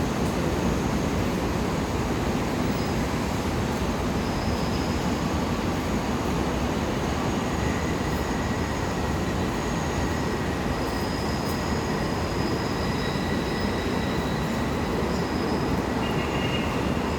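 New York City subway train running through the station with a steady rumble. Faint high-pitched wheel squeals come and go over it.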